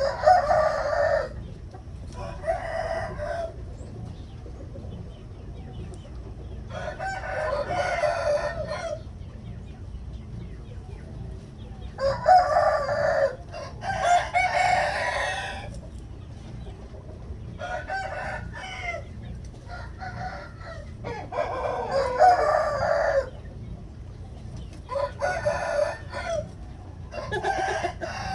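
Gamefowl roosters crowing again and again, about ten crows of one to two seconds each, some close together, over a steady low background rumble.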